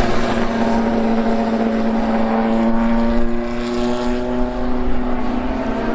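Racing car engine running at high revs with a steady, droning note that climbs slowly in pitch as the car accelerates.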